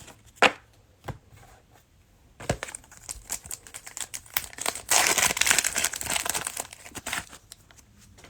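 Plastic cello wrapper of a basketball card pack being torn open and crinkled, with a few sharp clicks at first, then a long run of crackling that is densest for a couple of seconds near the middle.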